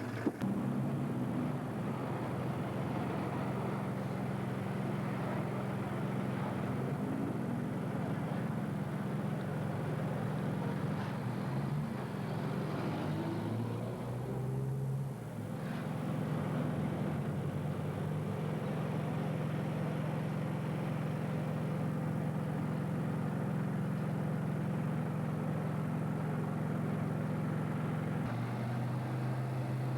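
A motor vehicle's engine running steadily with a low hum. It dips briefly about halfway through, and its pitch drops a little near the end.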